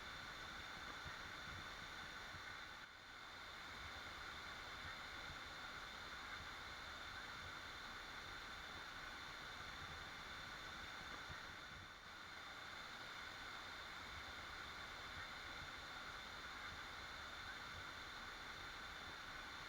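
Waterfall rushing as a steady, even wash of falling water, dipping briefly twice.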